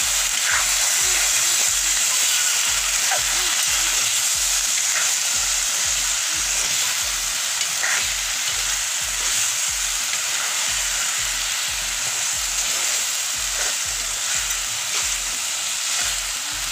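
Chicken and banana-flower stir-fry sizzling steadily in a kadai, already cooked through, while a metal spatula stirs and scrapes through it.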